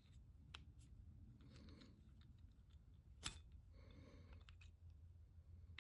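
Near silence with faint handling clicks of small metal parts, a sharper single click a little after three seconds in.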